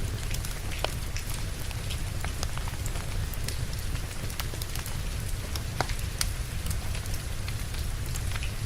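Steady rain hiss with a low rumble underneath, and a burning log fire giving irregular sharp crackles and pops throughout.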